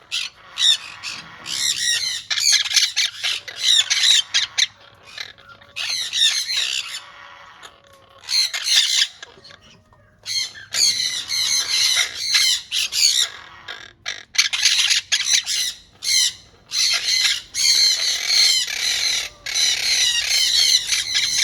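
Monk parakeets (quaker parrots) squawking in repeated harsh, chattering bursts, with short pauses between them.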